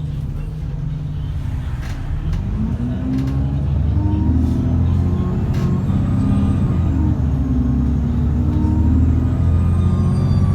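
Cummins ISBe 6.7-litre diesel engine of an ADL Enviro400 double-decker bus under way. The engine note rises about two seconds in and then holds steady, with a faint high turbo whine that climbs in pitch near the end.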